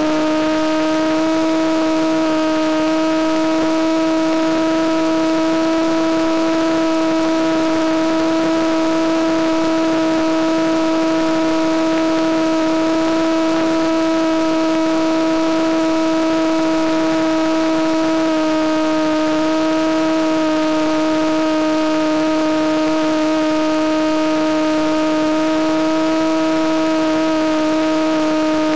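Electric motor and propeller of a Penguin FPV model plane running at a steady cruise throttle: a constant buzzing whine whose pitch steps slightly a couple of times.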